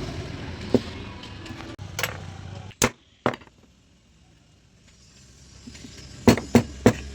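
A series of sharp knocks and clicks, like tools and metal parts being handled on a workbench: single ones spread through the first half, then three in quick succession near the end. Under them runs a low rumble that fades out about three seconds in and slowly returns.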